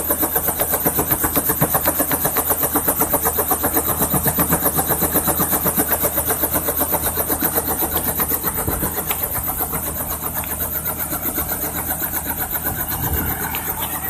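Helicopter rotor and turbine in flight, a loud steady rapid beat of the blades with a constant hiss over it.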